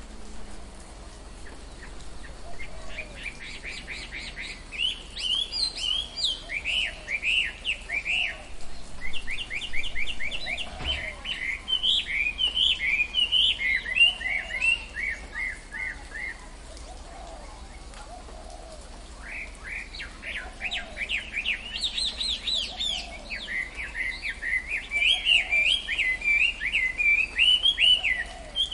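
Tropical forest birds singing: fast runs of high, sweeping chirps in two long bouts, the second starting about two-thirds of the way in. Under them a softer, lower call repeats about every second and a half.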